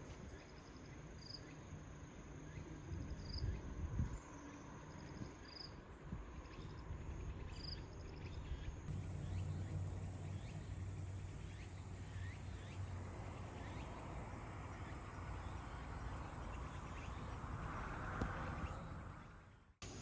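Insects chirping outdoors over a low background rumble, with a short high chirp repeating about every two seconds in the first half. The background changes about nine seconds in to a steadier low hum, and the sound fades out just before the end.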